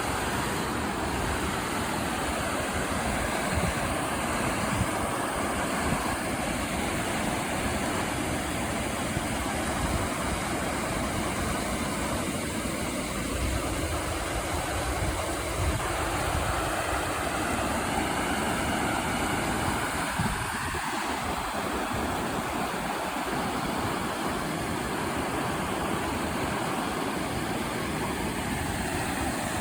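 Creek water rushing steadily over rocks, a continuous even noise with a deep rumble underneath.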